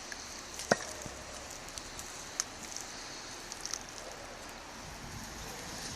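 Campfire crackling under a cooking kettle: a steady hiss with a few sharp pops, the loudest just under a second in.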